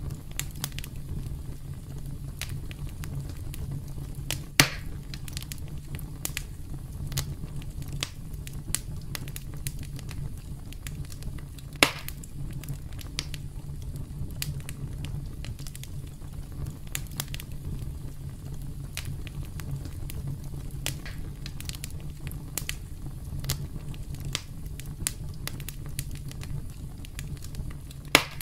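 Campfire crackling: irregular sharp pops and snaps of burning wood over a steady low rumble. Three louder pops stand out, about five seconds in, about twelve seconds in and near the end.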